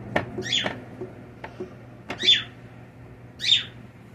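A bird calling four times, each a short call that falls in pitch, spaced about a second apart, over a steady low hum.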